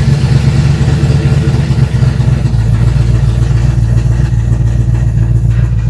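347 stroker small-block Ford V8 running steadily just after catching on its first start with a Holley Sniper ECU firing it through a locked-out magnetic-pickup distributor. The owner judges the timing still needs more advance, since it is popping at the rear.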